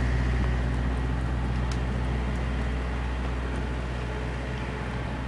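Engine running steadily with a low hum, slowly growing quieter.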